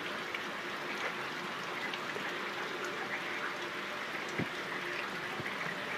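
Steady rain falling, a constant hiss with a few scattered drop taps.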